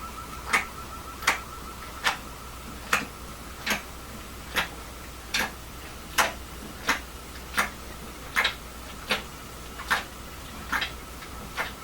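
Dog licking loudly and rhythmically: a smacking click about every 0.8 seconds, around fifteen in a row, each with a short wet tail.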